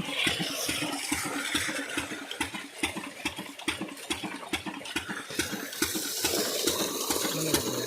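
14 hp double-flywheel single-cylinder diesel engine running steadily at low speed, its exhaust beat coming as regular knocks at about four a second.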